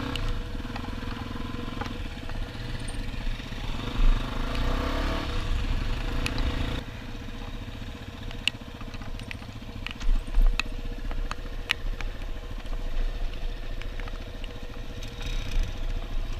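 Dual-sport motorcycle being ridden: the engine runs steadily under the drone of knobby tyres, which are loud as shit. The sound changes abruptly about seven seconds in, and a few sharp clicks come in the second half.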